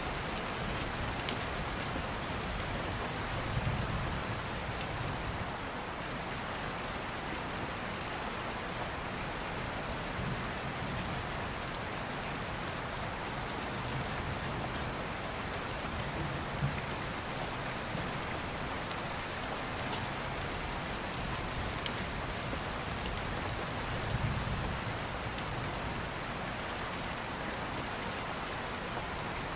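Steady rain with low rumbles of thunder swelling up a few times, about 4, 16 and 24 seconds in. Scattered sharp pops from a crackling open fire sound over it.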